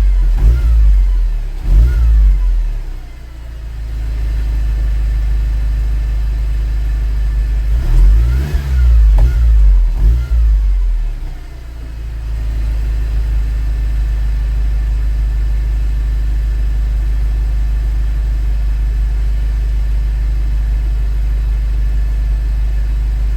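Mercedes-Benz W204 C200's four-cylinder engine heard through its exhaust, blipped in short revs near the start and in a quick cluster of revs about a third of the way in, then settling to a steady idle.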